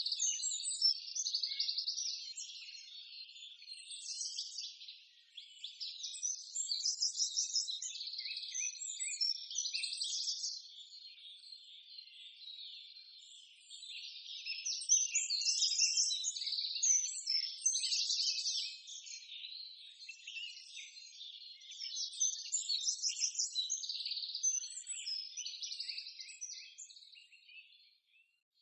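Small birds chirping and trilling: rapid strings of high, repeated notes that come in bursts of a few seconds with short lulls between.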